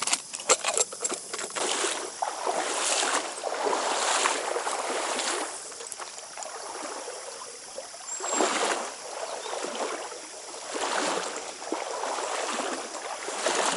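Flowing trout-stream water, rising and falling in repeated rushes, with a cluster of sharp clicks in the first second.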